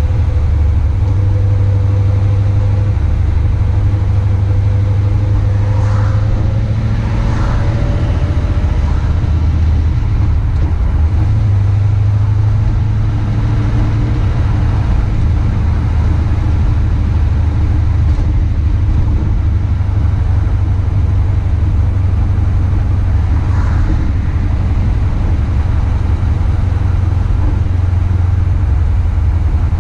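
1961 Chevrolet Impala driving at a steady cruise: a low, steady drone of engine and exhaust, heard through a camera mounted outside on the hood.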